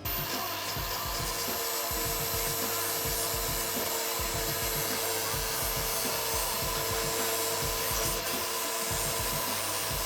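Angle grinder working steel, a steady abrasive hiss with a faint whine over it, starting and stopping abruptly.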